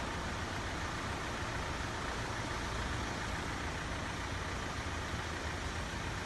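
Steady road-traffic noise, with vehicles idling in a queue at a closed level crossing, an even hum that holds level throughout.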